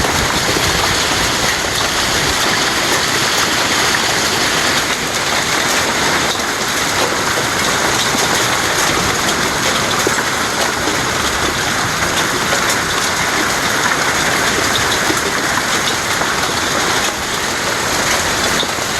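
Heavy hail falling and striking surfaces: a loud, steady, dense rush of countless small impacts.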